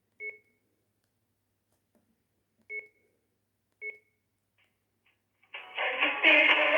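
Sagem myX-1 Twin mobile phone giving three short key-press beeps, then about five and a half seconds in a ringtone melody starts playing.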